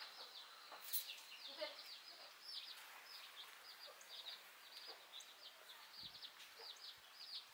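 Birds chirping: many short, high chirps, each sliding down in pitch, several a second, fairly faint. A sharp click about a second in.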